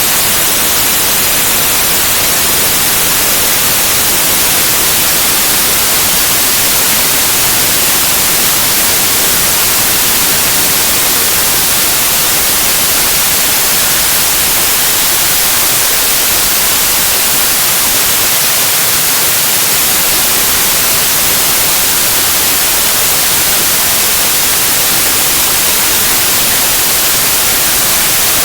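Steady white noise, a loud, even hiss brightest in the high range that never changes in level, played as a baby sleep aid.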